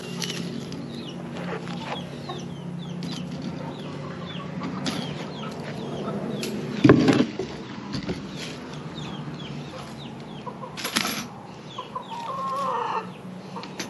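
Chickens clucking and giving many short, high, falling chirps. A low steady hum runs for about the first half, and a loud knock comes about halfway through.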